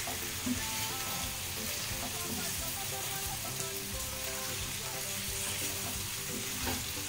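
Chicken pieces and onions sizzling steadily in a frying pan as they are stirred and turned with a wooden spoon.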